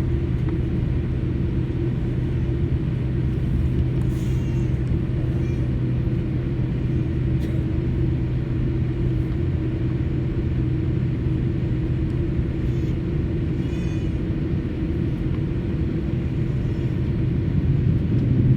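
Airliner cabin noise on the ground before takeoff: a steady low rumble of the jet engines and airframe with a constant hum, growing a little louder near the end.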